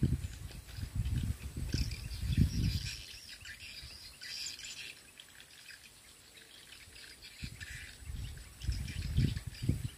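Birds chirping and calling in the background, with bursts of low rumble in the first few seconds and again near the end.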